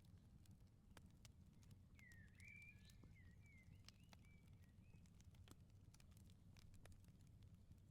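Faint crackling of a wood fire in a firepit: scattered sharp pops and ticks over a low steady rumble. A bird sings a short warbling phrase from about two to five seconds in.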